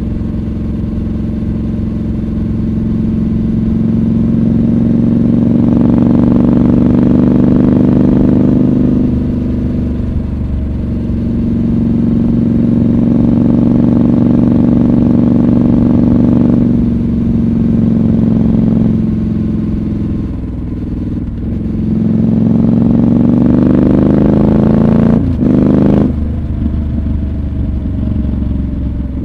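Triumph Scrambler 1200 XC's parallel-twin engine running under way, its pitch climbing and dropping several times as the rider rolls on and off the throttle and changes gear, with one sudden sharp dip a little before the end.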